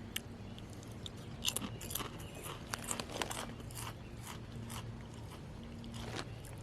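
Someone biting and chewing wavy potato chips: a run of crisp crunches, thickest from about a second and a half in to about four seconds, with one more crunch near the end.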